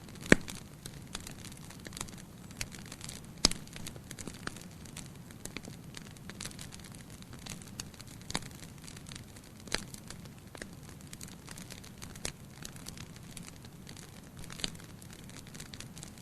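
Campfire crackling: irregular sharp pops and snaps over a faint low rumble, the two loudest pops just after the start and about three and a half seconds in.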